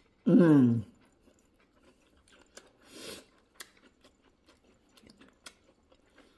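A person chewing a mouthful of rice and stir-fried green beans with pork, with scattered soft mouth clicks and smacks. Near the start there is a short hummed "mmm" that falls in pitch.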